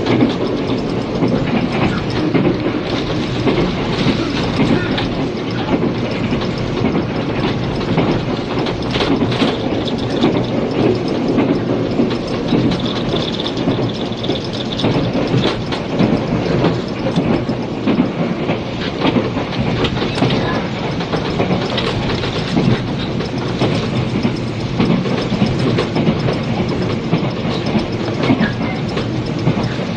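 Inside a 485 series electric limited express train car running at speed: a steady rumble with the repeated clicks of wheels passing rail joints. It is heard through the hiss of an old cassette tape recording.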